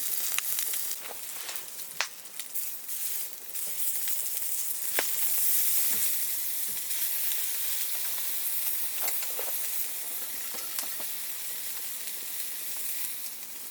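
Lamb skewers sizzling over a campfire: a steady hiss of cooking fat with occasional sharp pops.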